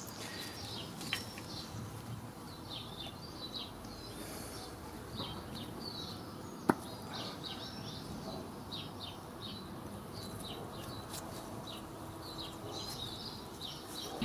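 Small birds chirping and singing in short repeated phrases, over faint outdoor background noise, with one sharp click a little past halfway.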